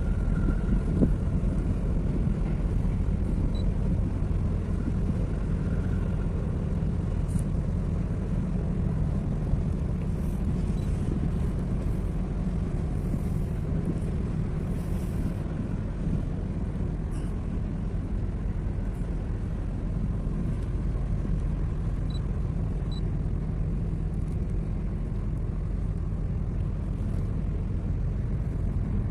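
Steady low rumble with no break, a few faint short ticks over it.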